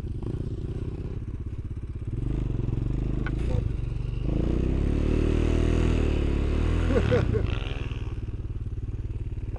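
Off-road vehicle engine running under way, its pitch rising and falling as the throttle is opened and eased, and getting louder about two seconds in and again about four seconds in.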